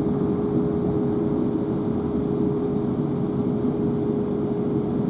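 Interior noise of a South Western Railway Class 444 electric multiple unit: a steady rumble and hiss with a constant hum-like tone over it, unchanging throughout.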